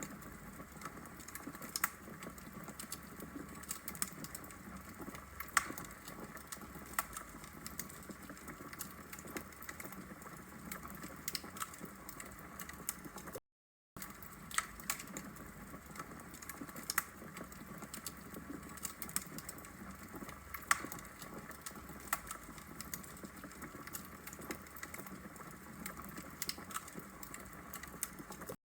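Wood logs burning in a brick fireplace, crackling with irregular sharp pops and snaps over a soft steady hiss. The sound drops out completely for about half a second near the middle.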